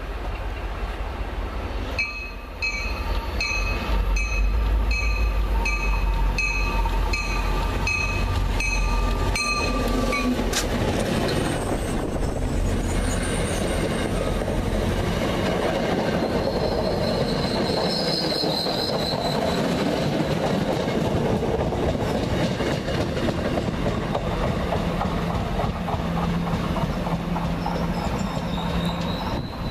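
MBTA commuter train with bi-level coaches passing through a station over a deep rumble. For the first ten seconds a warning bell rings about once every three-quarters of a second. The coaches then roll by with steady wheel-on-rail noise and a high squeal of wheels on the rails.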